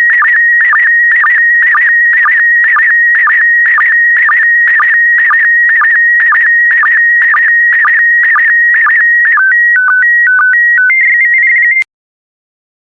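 PD120 slow-scan TV (SSTV) image signal: a loud warbling tone near 2 kHz, broken by a short lower sync dip about twice a second as each pair of image lines is sent. About nine seconds in it gives way to a run of short stepped tones, then cuts off suddenly, marking the end of the transmission.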